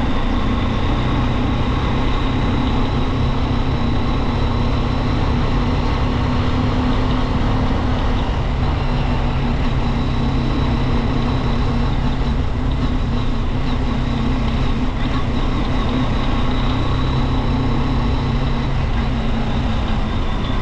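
Junak motorcycle engine running at a steady pace while riding, with no revving or gear changes.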